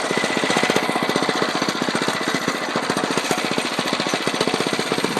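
Dirt bike engine running steadily: a rapid, even pulsing that holds one pace without revving up or down.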